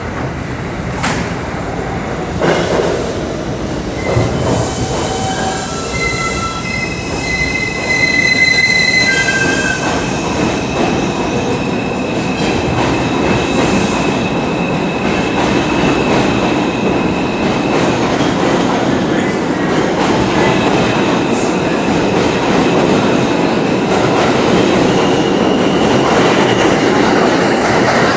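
Interior of an R142 subway car under way: the train's propulsion gives off short tones that step from pitch to pitch over the first ten seconds or so while it gathers speed. After that comes a steady wheel-and-rail roar with thin high wheel squeal.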